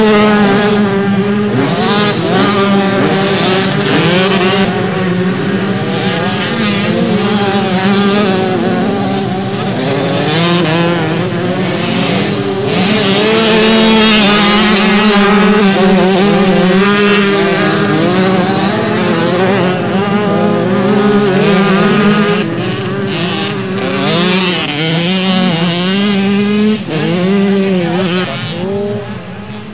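Several motocross bikes racing on the track, their engines revving up and down as they accelerate and shift, overlapping and continuous. It eases off near the end.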